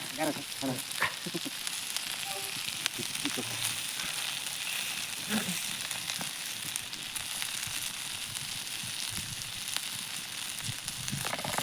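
Steady sizzling and hissing from a cooking fire, with many small crackles throughout.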